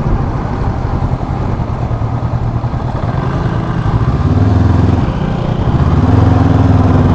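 Motorcycle engine running while being ridden, with a wind-and-road haze underneath. The engine note firms up twice in the second half, as if under more throttle.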